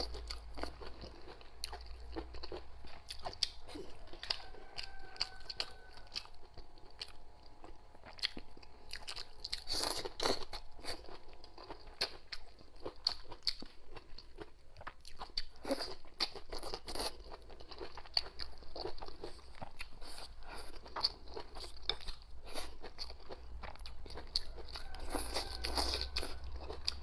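A person chewing and biting food close to the microphone: crunchy, irregular chewing with many small clicks and crackles.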